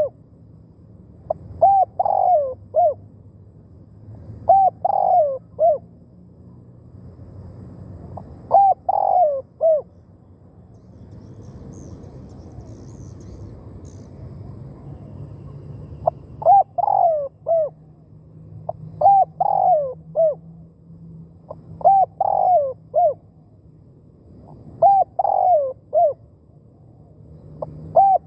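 Spotted dove cooing a short three-note phrase over and over, about every two and a half seconds, with a pause of about six seconds partway through.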